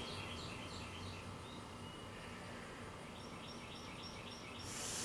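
Faint small-bird chirping: runs of short, falling chirps, several a second. Near the end comes a brief airy hiss.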